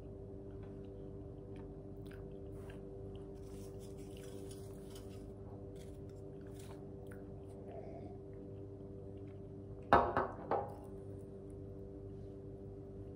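A person chewing chicken wings up close, with small wet clicks and light crunches, over a steady low hum. About ten seconds in there is a brief, louder clatter.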